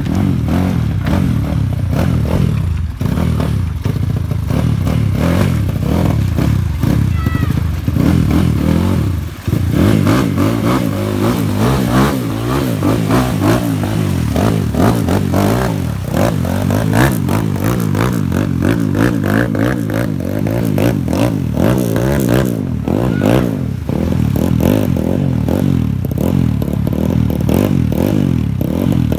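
Kawasaki KLX dirt bike's single-cylinder four-stroke engine revving up and down over and over as the bike is ridden through a shallow river, its pitch rising and falling.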